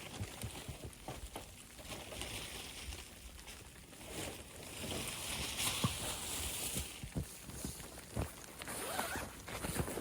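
A zipper on camping gear being drawn slowly, two long rasps with handling knocks around them.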